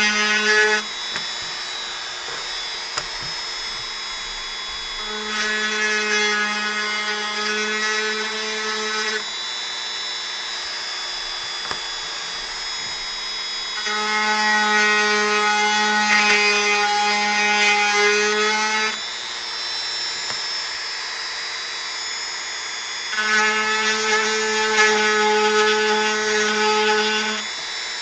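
Dremel rotary tool running with a steady high whine, carving wood. Three times, for about four to five seconds each, it cuts into the wood with a louder, buzzier grinding, and drops back to the lighter whine between cuts.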